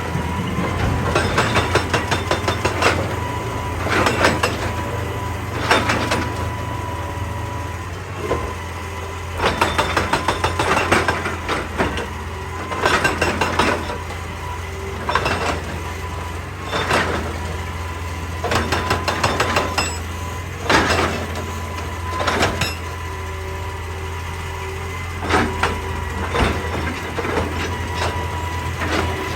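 Excavator's diesel engine running steadily under load, with repeated short bursts of rapid clattering knocks as it works rock.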